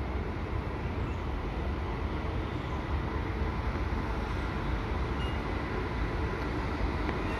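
WAP-7 electric locomotive hauling an express train approaching at a distance: a steady low rumble with faint steady whining tones over it.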